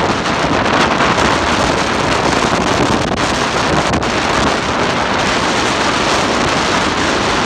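Steady, loud rushing noise of flowing water, even and unbroken.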